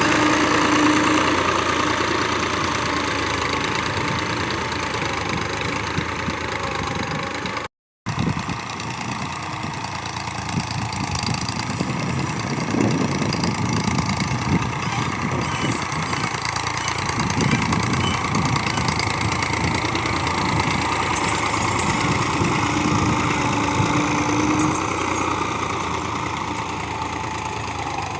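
Tractor diesel engine running steadily, broken by a sudden dropout of under half a second about eight seconds in.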